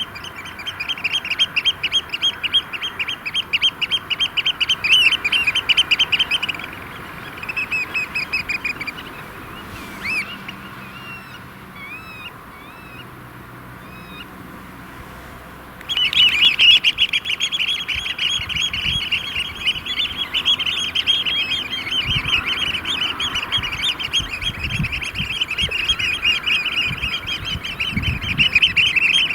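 A group of Eurasian oystercatchers piping together in a fast, shrill chorus of their display call. The chorus breaks off about six seconds in, leaving a quieter stretch with only a few scattered calls, then starts up again loudly about halfway through and carries on.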